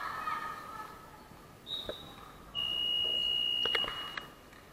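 Referee's whistle at a basketball game: a brief high blast, then a longer steady blast of about a second, signalling a stop in play. Voices shout at the start, and a couple of knocks come near the end of the long blast.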